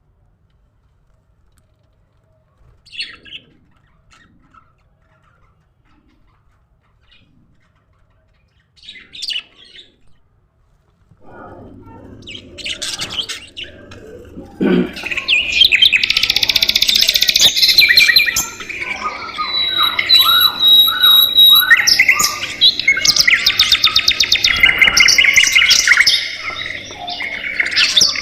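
Budgerigars calling: a few single chirps at first, then partway through a flock of budgies breaks into loud, continuous chattering and warbling.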